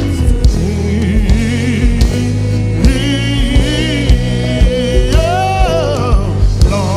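Live gospel praise-and-worship music: a band with bass and a steady drum beat, with sung vocals drifting over it.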